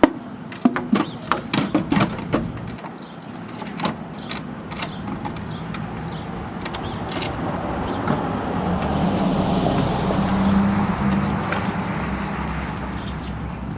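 A quick clatter of clicks and knocks, then a motor vehicle passing by: a steady engine hum and tyre noise that swells for several seconds, peaks near the end, and fades again.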